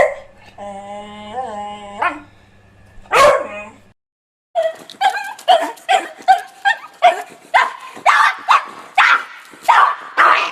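Dog whining in a drawn-out, wavering call, then one loud bark. After a short break, rapid barking follows at about three barks a second.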